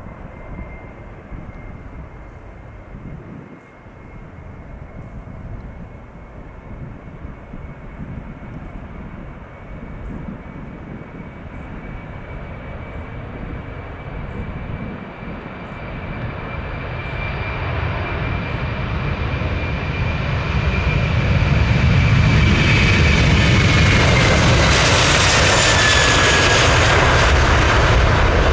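Jet airliner approaching and passing close by. Its engine noise and high whine grow steadily louder for about twenty seconds, then the whine drops in pitch as the aircraft goes past, near the end.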